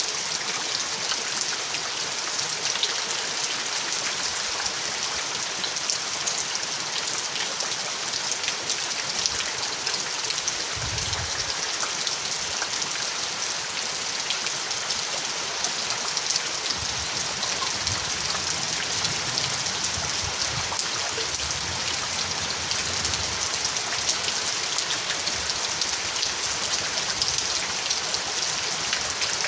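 Steady heavy rain, a dense patter of drops falling on a surface. Soft low rumbles come through about a third of the way in and again a little past the middle.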